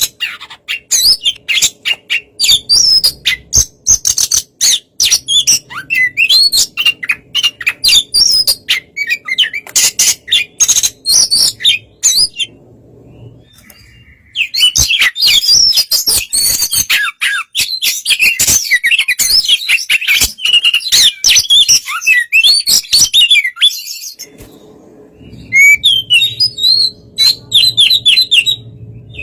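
Oriental magpie-robin singing a relaxed song: fast runs of sharp chirps and whistles, broken by two short pauses, one about halfway through and one near the end.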